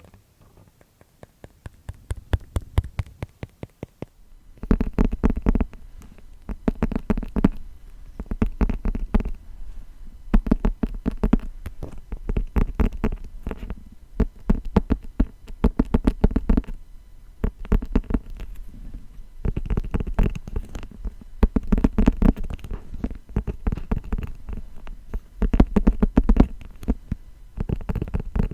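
Rapid tapping on a spellbook-style grimoire book, in dense flurries a second or two long with short pauses between. The first few seconds hold only sparse, quieter taps.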